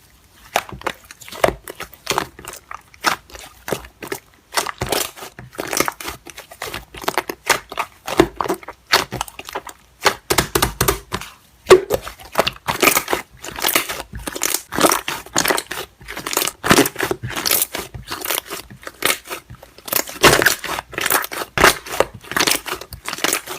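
Slime being squeezed and poked, with dense crackling and popping of small air bubbles throughout.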